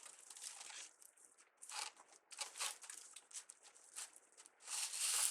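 Crinkling and rustling of deco mesh and ribbon being handled, in irregular bursts, with a louder stretch near the end.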